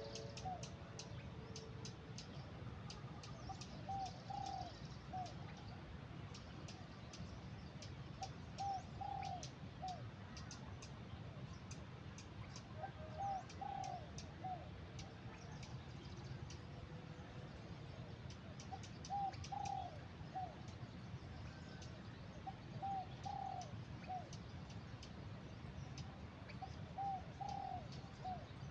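A bird repeating a short phrase of three or four low coos, about every four to five seconds, over a steady low background noise.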